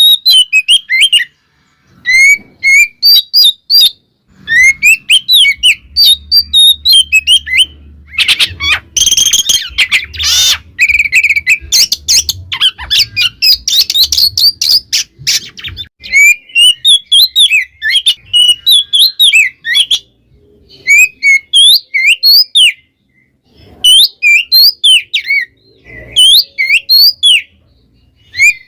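Oriental magpie-robin (kacer) singing loudly: rapid runs of varied chirps, whistles and squawky notes, delivered in dense phrases broken by short pauses. A denser, harsher stretch comes about a third of the way in.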